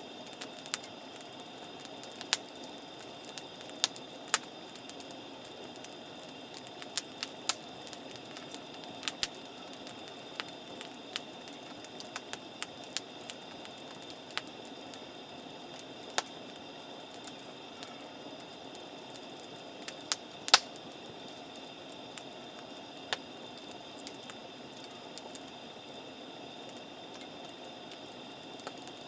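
Wood campfire crackling, with irregular sharp pops scattered through it, the loudest pop about twenty seconds in.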